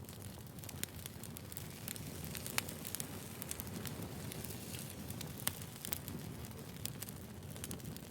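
Firewood burning: a steady low rush of flames with scattered sharp crackles and pops, the loudest about two and a half seconds in and again about five and a half seconds in.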